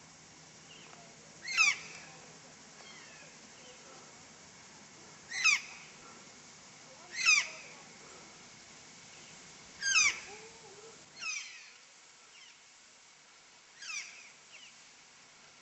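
A bird giving loud, sharply falling calls, one every two seconds or so, about six in all, the last two weaker.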